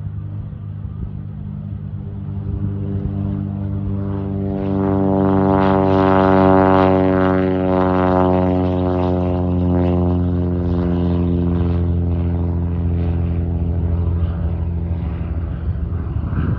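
Light single-engine propeller airplane's piston engine running steadily, growing louder about four seconds in as the plane comes close, then holding strong.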